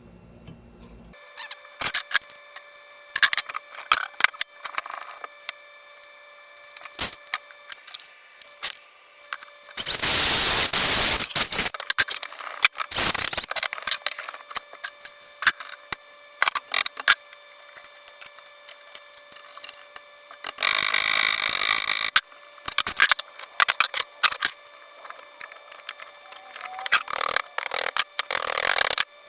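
Metal strap bracket being cut and drilled in the workshop: scattered clinks and knocks of metal and tools, with several loud stretches of cutting and drilling lasting a second or two each.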